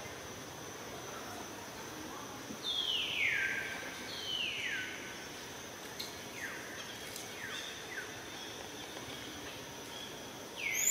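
A bird giving a series of falling whistled calls, two longer ones followed by several shorter ones, over a steady high insect drone.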